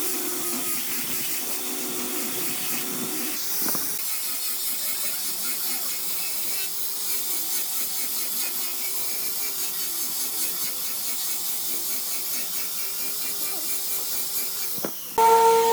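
Handheld power tool motor running steadily with a high whine whose pitch wavers slightly under load on the wood. The sound changes abruptly about four seconds in, and a louder, higher-pitched tool comes in near the end.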